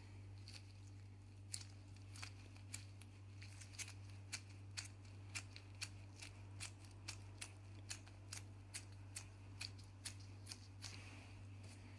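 Faint, short clicks repeating about two to three times a second over a low steady hum.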